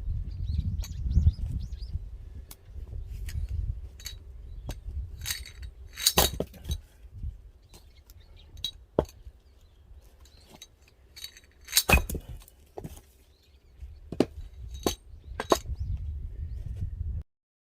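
Irregular sharp knocks and clinks of axe work on firewood, the loudest about six and twelve seconds in, over a low rumble.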